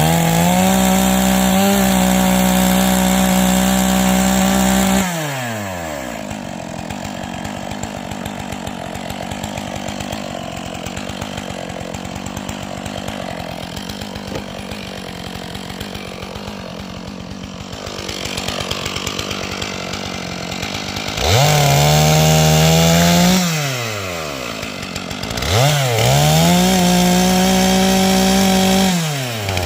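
Large chainsaw revved high and held at full throttle for about five seconds, then dropped to idle for a long stretch. It is then revved up again three more times in shorter bursts of two to three seconds, falling back between them.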